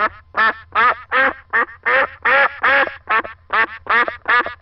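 A duck quacking over and over in short, quick quacks, about three or four a second, unevenly spaced.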